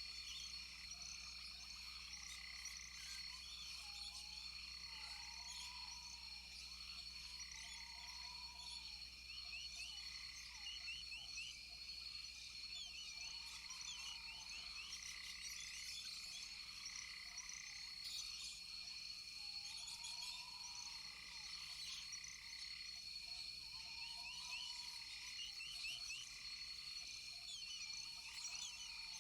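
A chorus of rainforest frogs calling, several kinds overlapping. Steady high-pitched trills run underneath, short rising-and-falling calls repeat about every two seconds, and quick chirps are scattered over the top.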